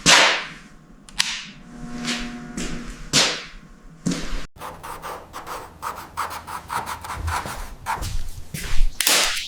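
A few separate quick swishes, then, after an abrupt cut about halfway through, a rapid run of rubbing or scraping strokes on a surface, ending in one loud swish.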